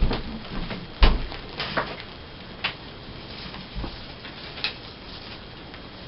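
Paper handling: magazine pages rustling and being shifted on a table, with a soft knock about a second in and a few lighter rustles after it.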